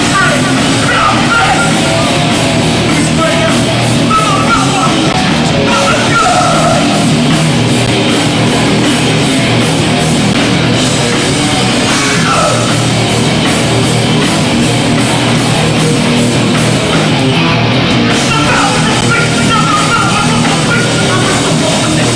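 Hardcore punk band playing live, loud and continuous: distorted guitars, bass and drums, recorded through a Hi8 camcorder's microphone.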